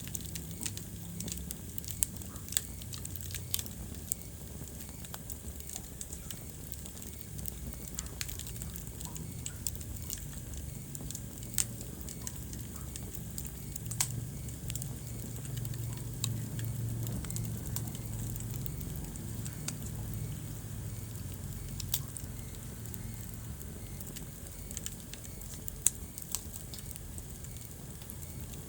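Wood fire crackling in a fireplace: a steady low rumble of flames with irregular sharp pops and snaps throughout, one of the loudest pops coming near the end.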